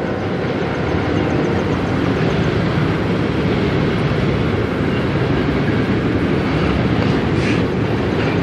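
Freight cars of a manifest train rolling past at steady speed: a continuous rumble of steel wheels on rail.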